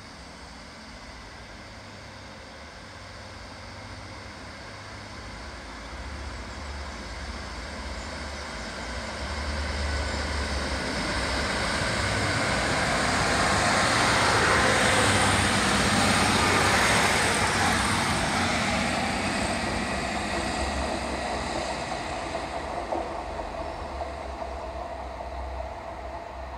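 Diesel multiple unit approaching and passing close by: its engine drone and the running noise on the rails build steadily to a peak about halfway through, then fade as it moves away.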